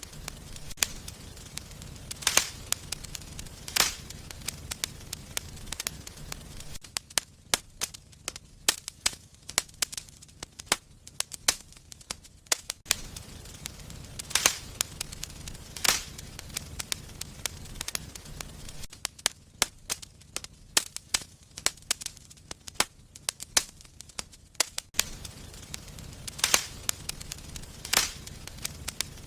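Wood fire in a fireplace crackling, with a steady run of sharp pops and snaps and a few louder cracks among them.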